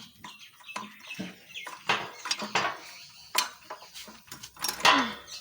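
Irregular metal clinks and clanks from bolts, washers and tools being handled while an exhaust silencer is fitted, with a louder clank near the end.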